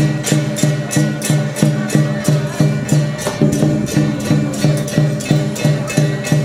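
Lion dance percussion music: drums, gongs and cymbals beating a steady, driving rhythm of about three strokes a second, with bright cymbal crashes on the beats.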